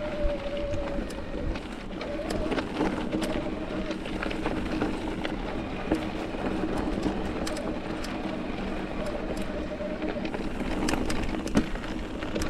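Mountain bike rolling over a rough, rocky trail: steady tyre and riding noise with frequent sharp clicks and rattles from the bike.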